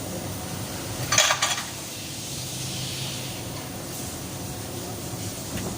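A brief clatter of loose metal engine parts being handled, about a second in, over a steady low hum.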